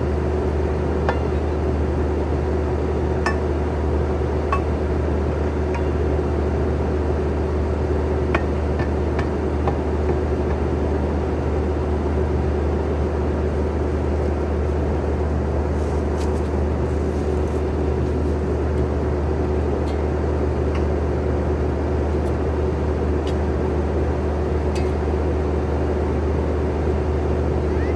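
Skid steer engine running steadily at constant speed, with scattered metallic clinks and taps over it.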